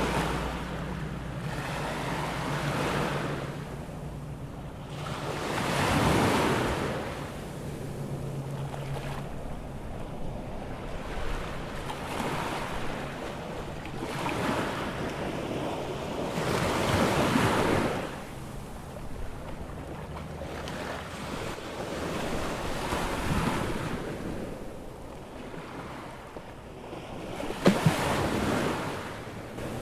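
Atlantic surf breaking on a beach, waves washing in one after another every few seconds, with wind on the microphone. A low steady hum fades out about nine seconds in, and two sharp knocks come near the end.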